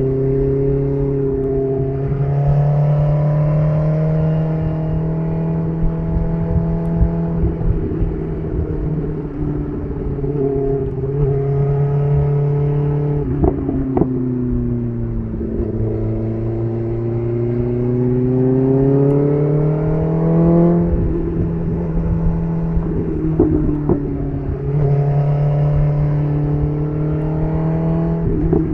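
BMW S1000RR inline-four sport bike running through an SC Project CR-T titanium exhaust while riding: the engine note climbs in several long pulls of acceleration and drops back between them, with sharp cracks where the revs fall.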